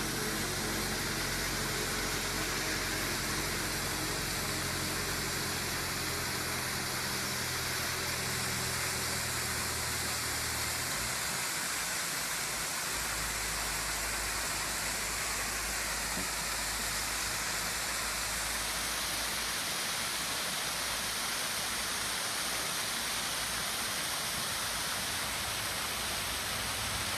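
Steady rushing of falling water from a waterfall. A low hum underneath stops about eleven seconds in.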